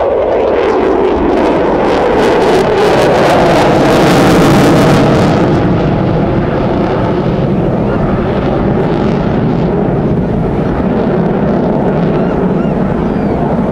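Military jet aircraft making a low pass: the engine roar drops in pitch as it goes by and swells to its loudest about four to five seconds in, then carries on as a steady roar, with wind on the microphone.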